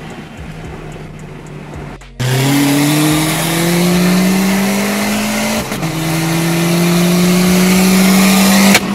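Car engine pulling hard at full throttle, heard from inside the cabin. After a quieter steady cruise, the sound jumps loud about two seconds in and the revs climb. They drop at an upshift about halfway through, then climb again and drop at another shift near the end.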